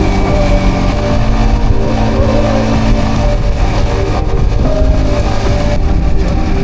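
Steady, loud vehicle running noise with a low rumble, heard while riding on the road, with music playing over it.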